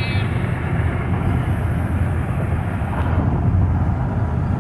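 Steady road and engine noise heard inside the cabin of a moving car, a continuous low rumble with no sudden events.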